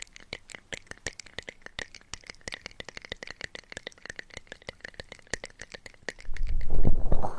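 Close-miked ASMR trigger sounds: a rapid run of crisp clicks and crackles, many a second. About six seconds in, a much louder low, muffled rubbing takes over, as of something brushed against the microphone.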